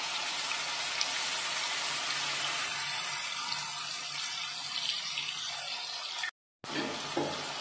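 Ground onion paste sizzling as it fries in hot oil with cumin seeds in a kadhai: a steady frying hiss that cuts out for a moment about six seconds in.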